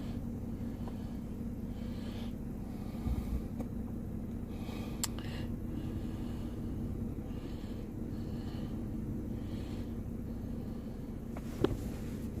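2016 Lincoln MKZ engine idling steadily just after its evap purge valve was replaced, which the owner finds running just perfect now. A sharp click comes about five seconds in, and another near the end.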